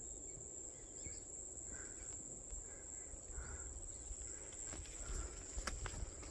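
Outdoor ambience dominated by a steady, high-pitched insect trill, with a low rumble underneath. A few faint short calls sound in the middle, and a few sharp clicks come near the end.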